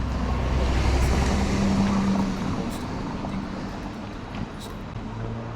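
A motor vehicle passing by: engine hum and tyre noise that swell about a second in, then slowly fade.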